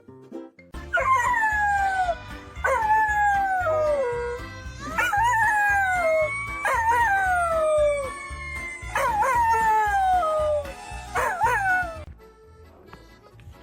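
An animal howling: about six long calls, each sliding down in pitch, over background music with a steady beat. The music and calls stop about a second before the end.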